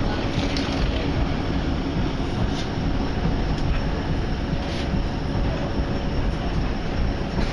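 Diesel passenger train heard from inside the carriage as it runs along the line: a steady rumble of wheels on rails, with a faint thin whine and a few light clicks.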